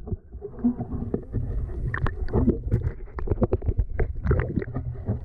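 Pool water sloshing and splashing, heard as a muffled low rumble with frequent short sharp splashes.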